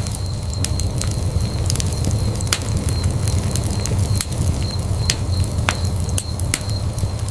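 Wood fire burning in a fireplace: a steady low rumble of flame with sharp pops and crackles at irregular intervals, several a second.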